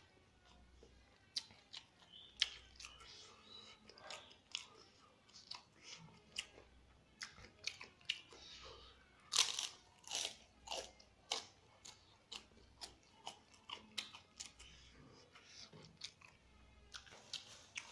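Close-up chewing of crispy fried egg (telur geprek) with rice: an irregular run of sharp crunches, loudest and densest about nine to eleven seconds in.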